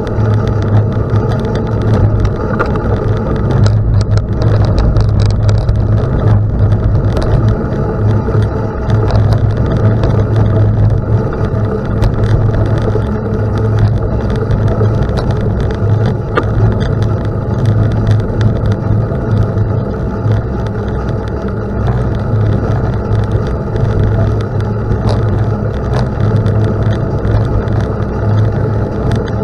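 Steady rumble of wind and tyres from a bicycle riding on a gravel road, with a few scattered clicks.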